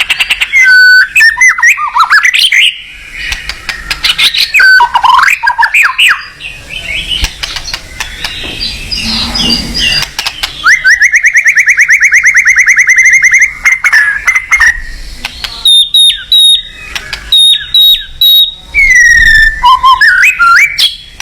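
A songbird singing a loud, varied song of whistled and slurred notes, with a long rapid trill about halfway through and short sharp chips near the end.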